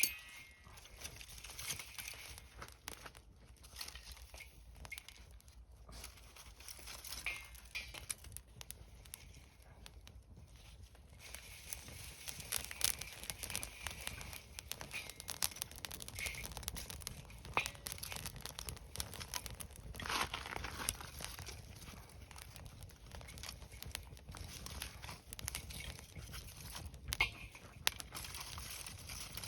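Irregular crackling and rustling, a dense run of small clicks and snaps, with a few short high chirps now and then.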